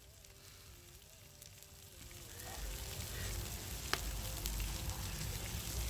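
Porterhouse steaks sizzling on a grill over a campfire, a steady frying hiss with scattered pops that grows louder about two seconds in.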